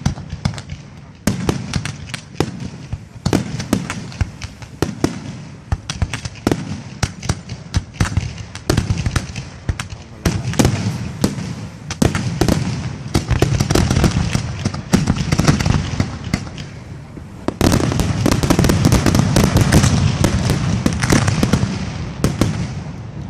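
Aerial fireworks display: shells bursting one after another in a string of sharp bangs and crackles, thickening near the end into a dense, nonstop volley of bursts lasting about five seconds.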